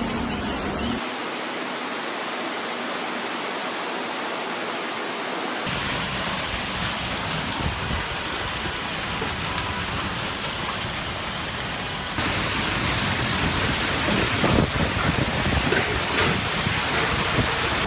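Heavy rain hissing in a storm, as a steady wash of noise, in several clips joined together: the sound changes abruptly about a second in, again near six seconds and again near twelve seconds, getting somewhat louder in the last part.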